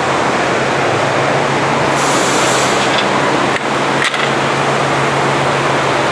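Forrest Model 236 bandsaw with a 5/8-inch scallop-edge blade running at 3000 feet per minute, slicing through a stack of rebonded foam. A loud, steady rushing noise sits over a low motor hum, with two brief dips a little past the middle.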